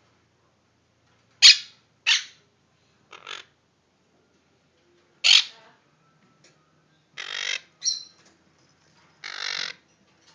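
Baby Quaker parrots (monk parakeets) squawking: four short, sharp calls in the first half, then two longer squawks with a brief one between them near the end.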